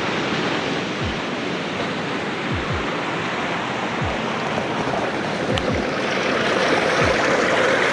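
Snowmelt-swollen river in heavy flow, a steady rush of water.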